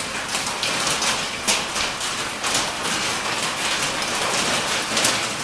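Marble-sized hail pounding a metal building: a dense, loud clatter of stones on sheet metal, with sharper single hits standing out now and then.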